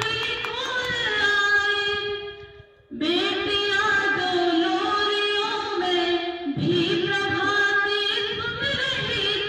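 A girl singing long, held melodic notes with a wavering pitch, in three phrases with short breaks about three seconds and six and a half seconds in.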